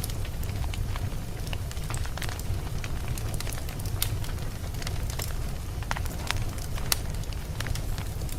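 Wood fire burning, with a steady low rumble of flames and irregular sharp crackles and pops from the burning logs.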